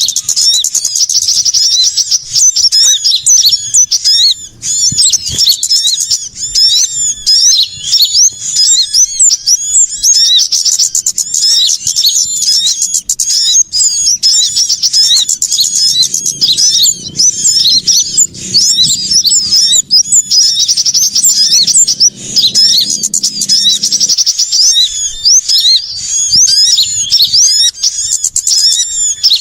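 A bird-lure recording of many small songbirds chirping and chattering without pause: a dense mass of rapid, high, overlapping chirps and short whistled glides.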